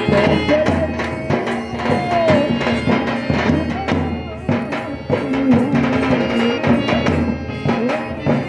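Live Rajasthani folk music: hand drums beating a steady, quick rhythm under a sustained melodic instrument line, in a short instrumental stretch between sung verses.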